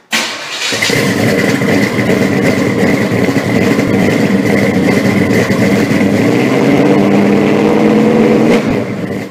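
Loud car engine running at a steady speed, dropping off near the end.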